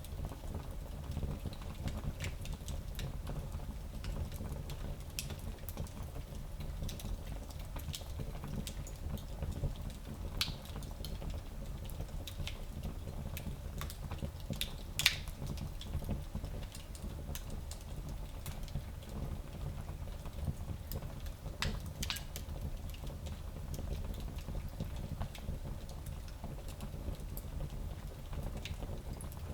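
Wood fire crackling in a small fireplace: scattered pops and snaps over a steady low rumble, with one sharper pop about halfway through.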